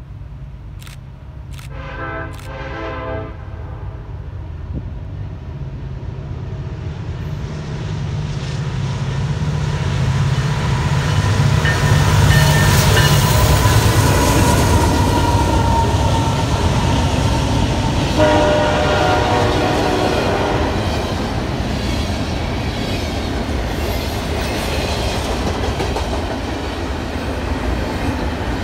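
Union Pacific diesel locomotive hauling a double-stack container train, approaching and passing at speed. A horn blast comes about two seconds in and another about eighteen seconds in. The locomotive is loudest as it goes by, followed by the steady rumble and clickety-clack of the container well cars rolling past.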